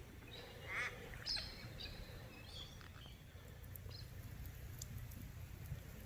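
A few faint bird calls, the first about a second in, over a low steady background rumble.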